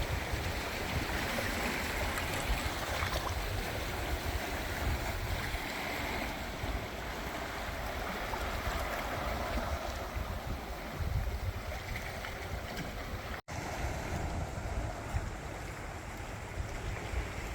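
Mediterranean waves washing onto the beach, with gusty wind rumbling on the microphone. The sound cuts out for an instant about three-quarters of the way through.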